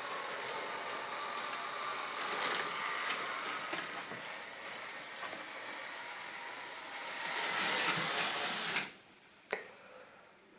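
Model railway train running on the track, a steady whirr of motor and wheels on rail that swells twice as it passes close. It cuts off sharply about nine seconds in, followed by a single click.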